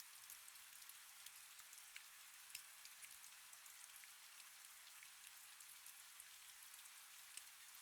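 Faint, steady rain falling, with scattered light drop ticks over a soft hiss.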